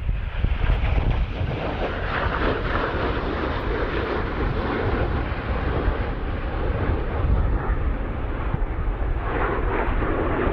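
Jet engine noise from USAF Thunderbirds F-16 fighters in flight, a steady loud rush that swells a little about two seconds in and again near the end, with wind rumbling on the microphone underneath.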